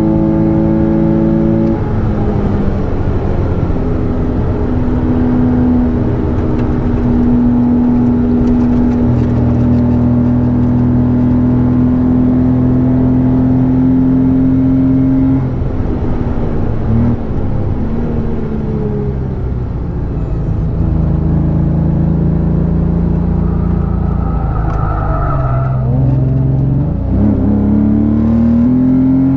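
Porsche Boxster S 3.2-litre flat-six engine running under load on track, its note holding steady for long stretches, stepping down in pitch about two seconds in and dipping then rising again near the end as it changes gear and revs.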